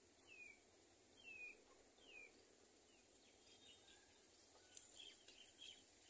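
Faint bird chirps: three short falling notes about a second apart, then a scatter of brief higher chirps and ticks near the end, over a quiet outdoor hiss.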